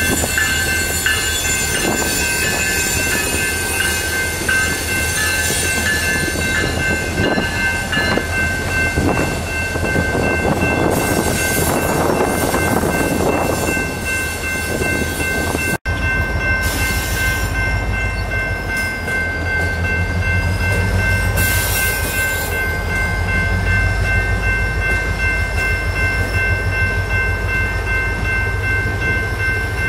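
Freight train's cars rolling past close by: a steady rolling rumble with high, steady whining tones from the wheels on the rails. There is a sudden break about halfway through, after which a deeper low rumble is stronger.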